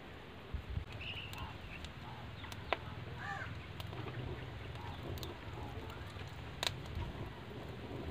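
Faint outdoor background of birds calling now and then in short chirps, over a low steady rumble, with a few sharp clicks scattered through it.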